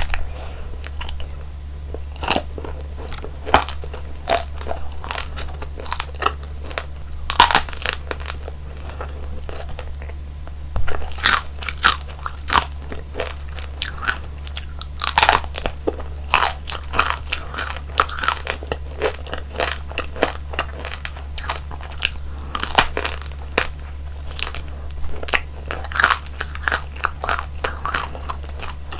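Close-miked eating of roll-up jelly and ice cream: irregular crisp crunching bites and chewing, in clusters, over a steady low hum.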